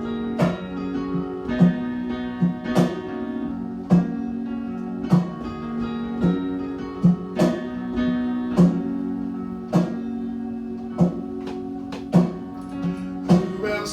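Acoustic guitar strumming sustained chords in a steady rhythm, a strong stroke about once a second: the instrumental introduction to a worship song.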